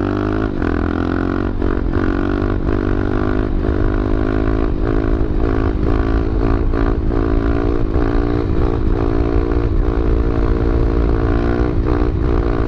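A 125cc single-cylinder four-stroke pit bike engine running under held throttle at steady revs during a long wheelie.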